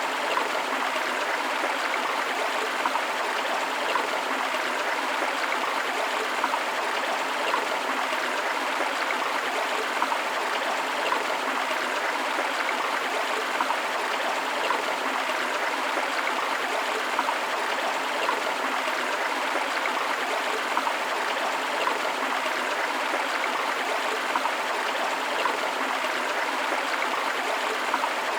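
Shallow stream or river flowing over rocks, a steady rushing splash with small gurgles and trickles throughout.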